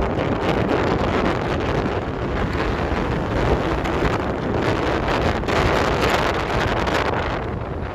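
Wind buffeting the microphone over the steady wash of sea waves, swelling and easing slightly.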